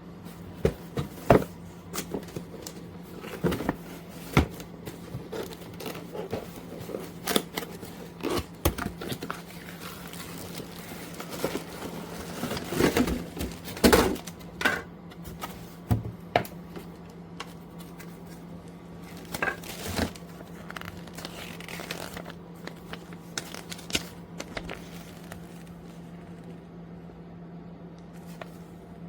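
Irregular crinkling, rustling and sharp clicks of things being handled, over a steady low hum.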